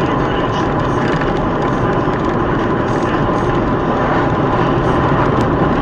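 Steady engine and road noise of a moving car, an even rushing with no sudden events.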